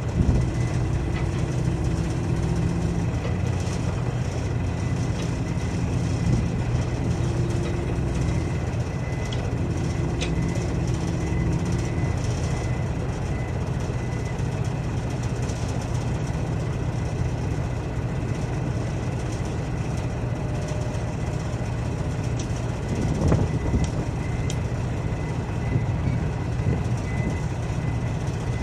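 A heavy diesel engine running steadily at a constant speed, with a deep, even drone throughout.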